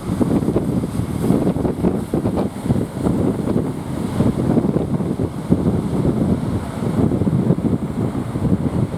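Strong wind buffeting the microphone in irregular gusts, with waves breaking behind it.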